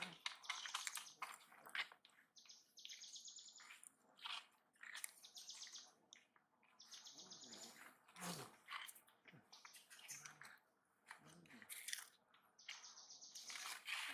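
Faint, high buzzy bird trills, each about a second long, repeating every second or two, with scattered short ticks between them.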